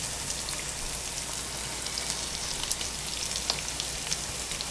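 Grated-potato rösti patties frying in hot vegetable oil in a pan: a steady sizzle with scattered small crackles and pops.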